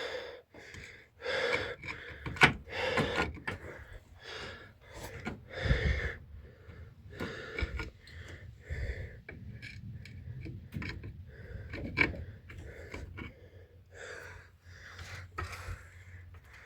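A man's heavy breathing and gasps of effort, repeated every second or so, with a few sharp knocks of metal parts in between.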